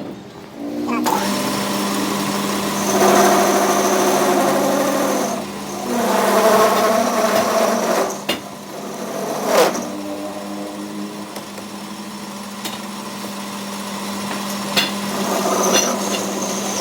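A workshop machine tool's electric motor starts about a second in and runs with a steady hum. Over it come two long stretches of louder cutting or grinding noise and a few sharp clicks or knocks.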